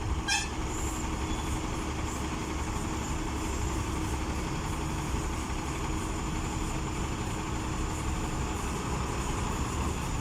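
Heavy diesel truck engine running steadily under load as trucks climb the ghat road, a low continuous rumble. A brief sharp sound comes about a third of a second in.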